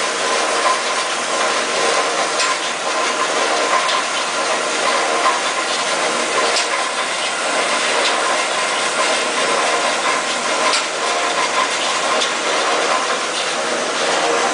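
DAKE Johnson JH10W3 horizontal metal-cutting band saw running steadily, its three-phase motor and blade drive giving a busy mechanical hum with faint ticking, while the hydraulic down feed lowers the saw frame. The motor is a little noisy and shudders, which the seller thinks may need a slight adjustment.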